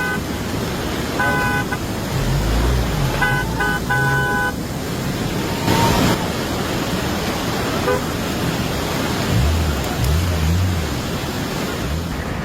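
Vehicle horns honking: a short blast about a second and a half in, then a cluster of toots a couple of seconds later, over a steady rushing noise.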